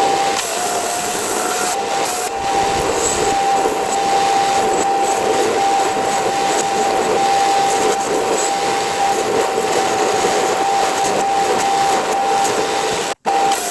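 Belt sander running with a steady motor whine and a broad hiss as a cast bronze anvil is ground against the belt to flatten it. The sound drops out for an instant near the end.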